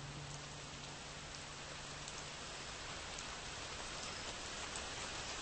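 Steady hiss of outdoor background noise, with the low hum of the Pontiac Aztek that has just passed fading out about two seconds in.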